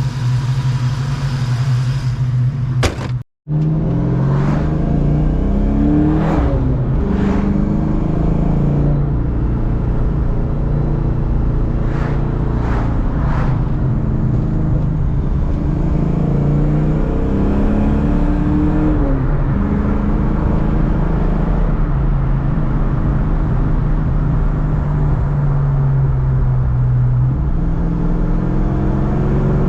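1993 Ford Mustang SVT Cobra's 5.0 L V8 running; after a short break about three seconds in, the engine pulls the car along, its pitch rising and falling several times as it revs and drops back.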